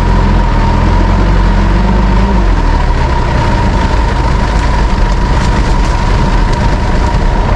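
Mitsubishi Pajero Dakar's engine running steadily at low speed, a deep rumble with a steady whine over it.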